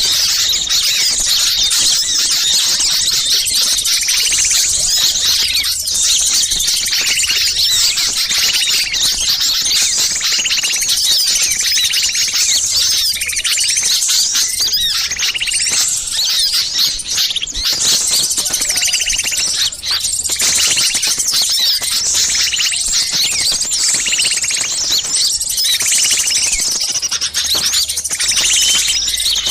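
A dense, continuous chorus of many small songbirds making agitated, noisy chatter and alarm calls, layered together as a bird-trapping lure recording. A lower repeated call sounds about once a second through the thick, high-pitched twittering.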